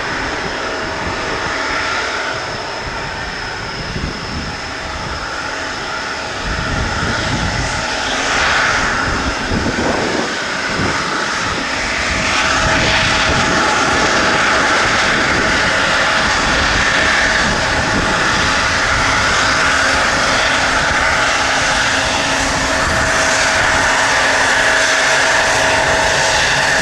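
Jet airliner engines running as the plane taxis along the runway, a steady whine with a rushing noise that grows louder about twelve seconds in and holds, with gusty wind rumbling on the microphone underneath.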